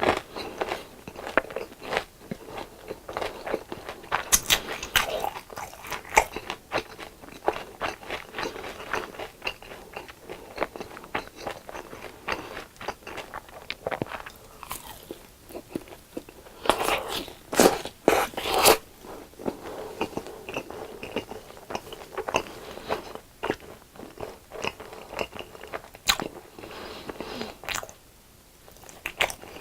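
Crunching and chewing of crispy deep-fried food, bite after bite, with a louder run of crunches about two thirds of the way in and a brief pause near the end.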